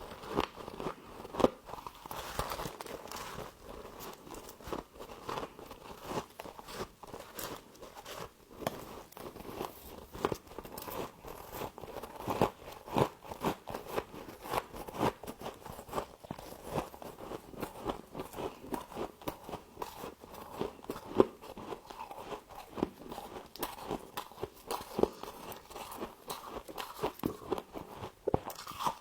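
Frost being bitten and chewed close to the microphone: a dense, continuous run of sharp crunches, with a few louder bites standing out.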